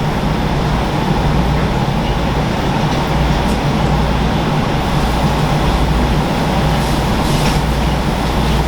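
Steady loud mechanical hum with a constant rushing noise and a low drone underneath, with a few faint clicks.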